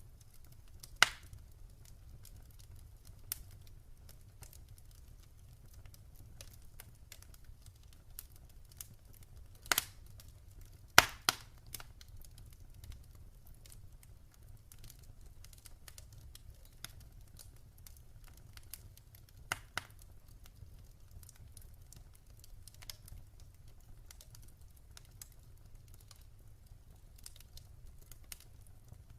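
Wood fire crackling in a fireplace: scattered small crackles and a few louder pops over a faint low rumble.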